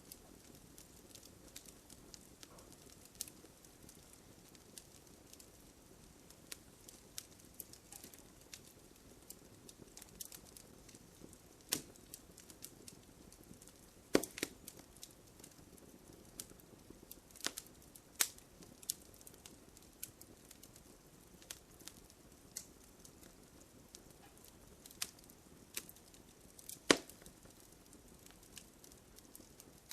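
Wood campfire crackling, with a soft steady hiss under irregular sharp pops and snaps, a few louder pops standing out.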